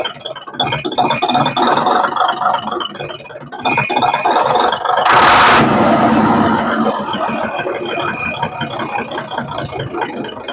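Isuzu 6WF1 diesel truck engine, converted to a manual injection pump, running with a busy rattle. A loud short hiss cuts in about five seconds in, and the engine settles into a lower, steadier sound.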